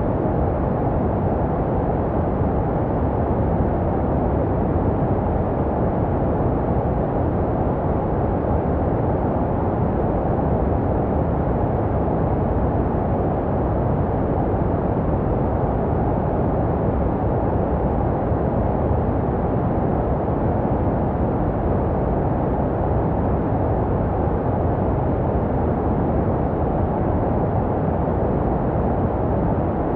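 Steady, unchanging white noise for baby sleep, deep and muffled with little hiss in the highs, made to resemble the sounds a baby hears in the womb.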